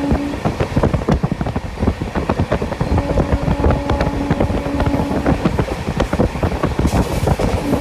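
Express train running at speed, heard from inside a coach: a steady rumble with dense rattling and clicking of the wheels over the rails. A steady pitched tone comes and goes, at the start, in the middle and near the end.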